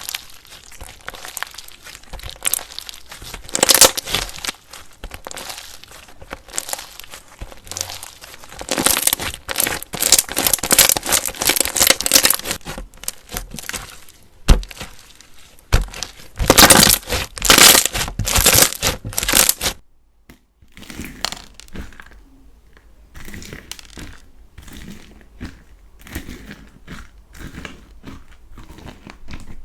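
Slime being squeezed and pressed by hand, giving dense crackling, crinkling pops. About two-thirds through it changes to quieter, sparser crackles.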